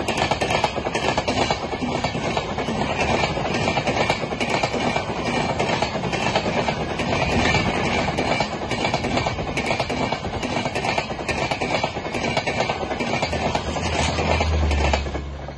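Passenger coaches of an express train passing close by at speed: a steady rush of steel wheels on rail with rapid clicks over the rail joints. It drops off suddenly near the end as the last coach goes by.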